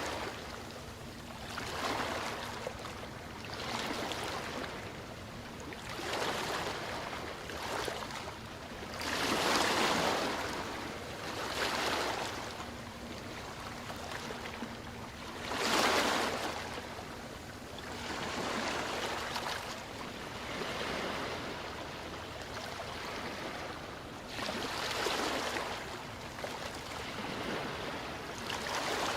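Ocean waves washing in one after another, each a swell of surf noise rising and falling every few seconds, with the biggest breaks about ten and sixteen seconds in.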